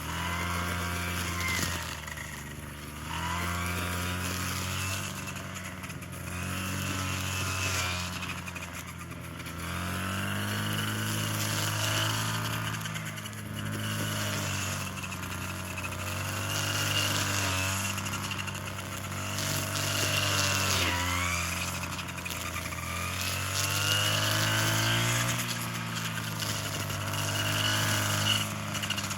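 A small engine running, its pitch rising and falling back every few seconds as its speed or load changes.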